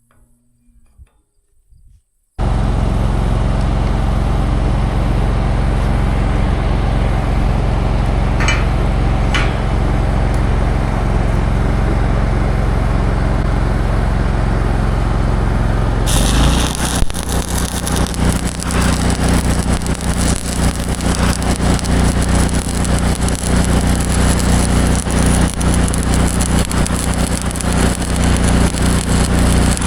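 A vehicle engine running steadily, cutting in abruptly about two seconds in. About halfway through it turns louder and rougher.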